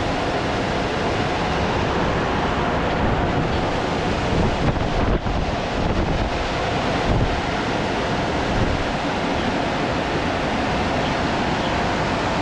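Car wash equipment running over a car: a steady rushing of air and water, with a faint steady whine under it.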